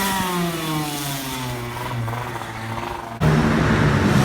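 Racing motorcycle engine whose note falls steadily in pitch and fades over about three seconds. A little past three seconds it cuts abruptly to a louder engine note.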